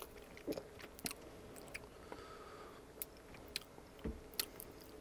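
Quiet close-up chewing of a bite of toasted sub sandwich, with scattered soft crackles and clicks of the crust and mouth.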